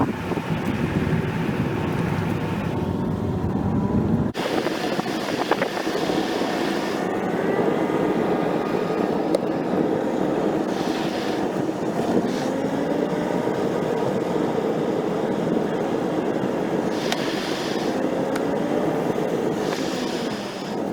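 Steady vehicle noise with wavering pitch, changing abruptly about four seconds in.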